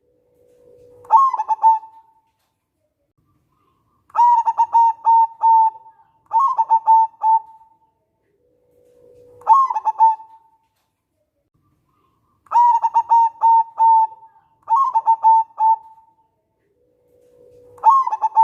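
Zebra dove (perkutut) cooing in repeated phrases, about seven of them. Each phrase is a quick run of clipped coo notes, and several begin with a low, soft drawn-out note.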